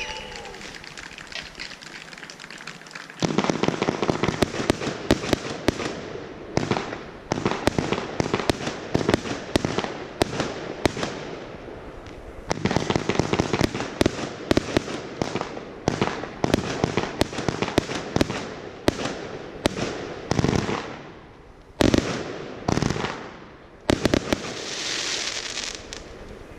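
Fireworks display: rapid bangs and crackling in dense runs from about three seconds in, broken by short pauses, with two louder single bangs near the end followed by a brief hiss.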